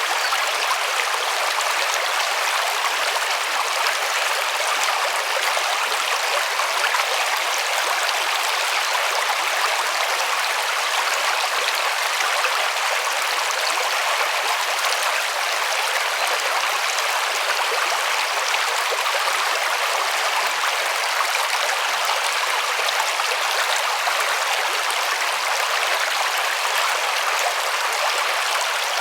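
River water rushing over stones, a steady, even wash with no breaks.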